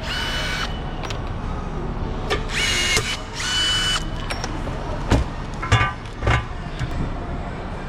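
Handheld power tool whirring in three short bursts of under a second each, then three sharp knocks with dull thuds a little later.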